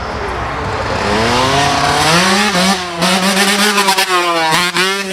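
Dirt bike engine revving. Its pitch climbs from about a second in, dips once and holds high, with two short breaks, one around the middle and one near the end.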